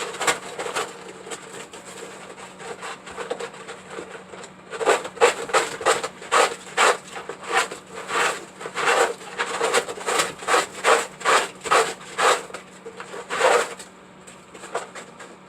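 Sandpaper being rubbed by hand in quick back-and-forth strokes on the inside of a handmade turtle waterfall. The strokes are light at first, then become louder and more regular, about two to three a second, from a few seconds in until shortly before the end.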